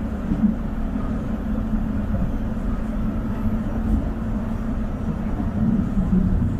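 LRT Line 1 light-rail train running: a steady low rumble with a wavering hum underneath.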